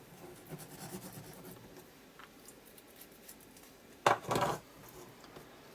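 Faint rubbing and rustling of paper and card being handled and pressed, with one brief louder rustle about four seconds in.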